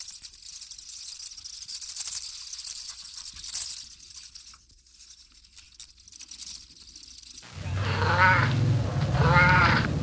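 A high hiss with scattered crackles, then, after an abrupt change about three-quarters of the way through, loud wavering bleats from a sheep-like animal, two in quick succession, each about a second long.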